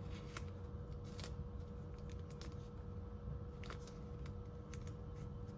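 Faint rustling and small irregular clicks of tape being handled and wrapped around a motor shaft, over a low steady hum.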